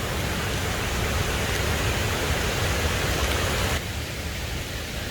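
Waterfall cascade rushing, a steady wash of falling water; about four seconds in it suddenly turns duller and a little quieter.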